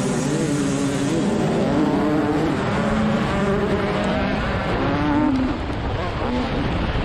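TM300 two-stroke motocross engine at race pace, its pitch rising and falling again and again as the throttle opens and closes.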